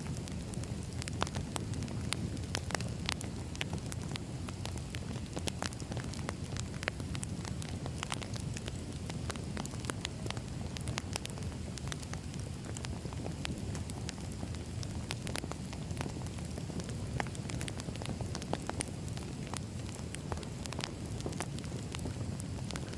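Burning firewood: a low steady rumble of the fire with frequent sharp, irregular crackles and pops from the wood.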